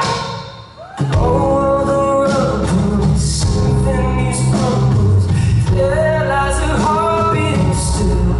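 Live concert music: a singer with a full band. The sound drops away briefly just before a second in, then the band comes back in full under the sung melody.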